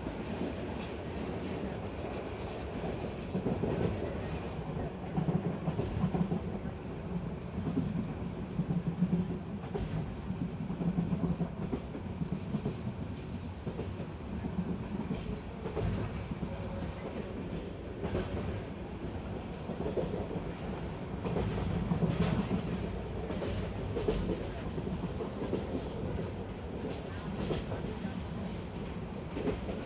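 Bangladesh Railway passenger train running along the track: a steady rumble that swells and eases, with occasional knocks.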